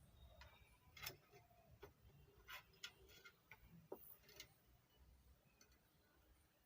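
Faint, scattered sharp clicks and light taps of hand tools working on an amplifier circuit board while transistors are being removed, most of them between about one and four and a half seconds in.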